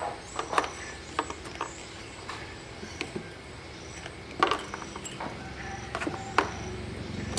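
Irregular light clicks and knocks, about a dozen of them, scattered over a faint steady background, as of tools and parts being handled.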